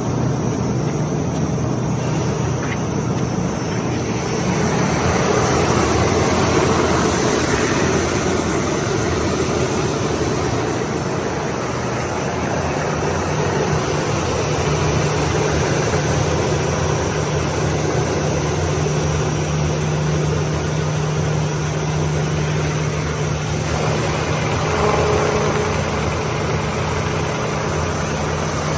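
Six-roll wood sanding machine running: a steady motor hum under the rushing, grinding noise of the abrasive rollers working on wood, swelling a little now and then.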